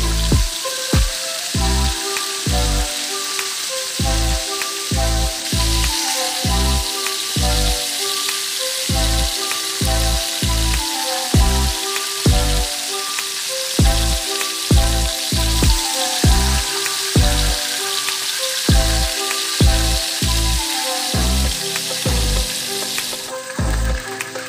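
Breaded chicken wings deep-frying in hot oil in a wok, a steady sizzle, over background music with a steady bass beat. The sizzle thins near the end as the last pieces are lifted out of the oil.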